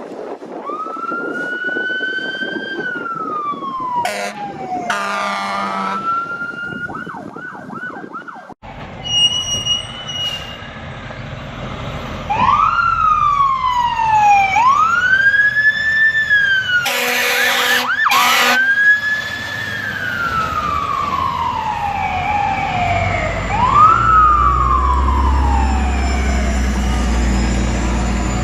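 Emergency vehicle sirens wailing, each tone rising quickly and falling slowly, with a quick warbling stretch a few seconds in. After an abrupt cut the wailing goes on, broken about halfway through by two short, very loud blasts, and a low engine rumble comes in near the end.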